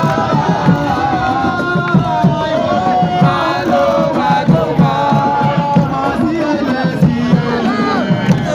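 A crowd of supporters chanting and singing together in unison over a steady, fast drum beat.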